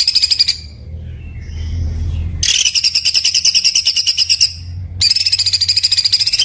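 Caged songbird giving harsh, very fast trilled bursts, the rough 'tembakan' type of song used as a masteran for other birds to copy. One burst ends about half a second in, another runs for about two seconds from the middle, and a third starts near the end. A faint low hum runs underneath.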